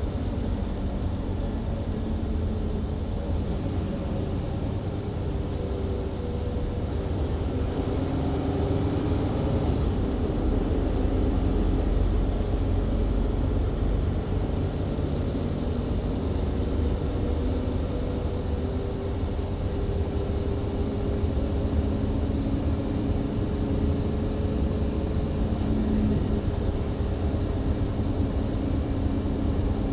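Onboard sound of a Mercedes-Benz Citaro C2 LE hybrid bus driving: the diesel engine runs with tones that drift slowly up and down over a steady low road and tyre rumble, swelling slightly about a third of the way in.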